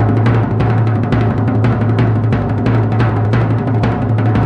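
Fast, even roll on a low-tuned drum, about nine strokes a second, over a steady low ringing tone.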